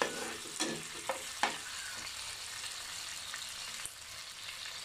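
Onions and tomatoes in soy and red chili sauce sizzling steadily in hot oil in a wok-style pan. A spatula scrapes and stirs against the pan about four times in the first second and a half, then the sizzle goes on alone.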